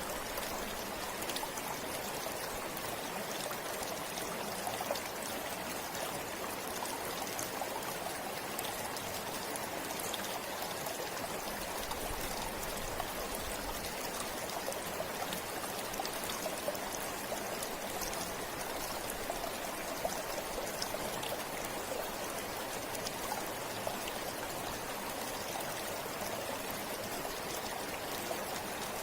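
Steady rushing and babbling of a river's flowing water, with small splashes scattered through it.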